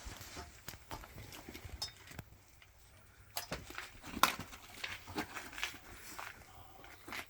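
Handling noise of a shooter getting into position at the start of a rifle stage: rustling, footsteps and small clicks and knocks of rifle and gear, with one sharper knock about four seconds in.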